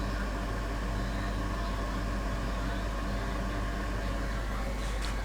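Steady machine hum with several constant tones, like a small motor or fan running on a workbench. It holds level throughout, with a few faint ticks near the end.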